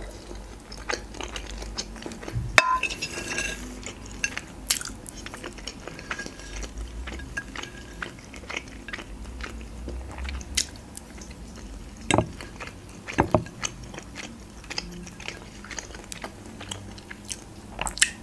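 Close-miked eating: a person chewing macaroni with minced meat, with a metal fork clinking and scraping on a ceramic plate a few times.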